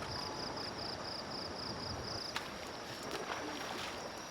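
Insects chirping in a quick, even rhythm of about four or five pulses a second, stopping about halfway through, over a steady outdoor background hum; a single faint click a little past the middle.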